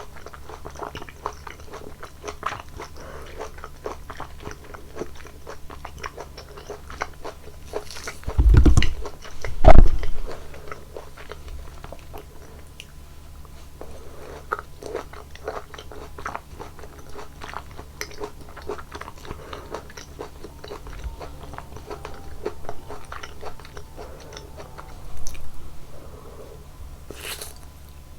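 Close-miked biting and chewing of juicy fruit, a steady run of small wet crunches and clicks. Two loud low thumps come about eight and ten seconds in, and a short hiss near the end.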